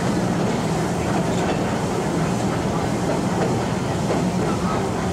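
Steady running noise of a steam train's passenger coach rolling along the track, heard from on board.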